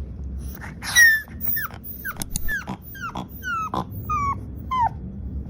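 A dog giving about ten short, high cries in quick succession, each falling in pitch, starting about a second in.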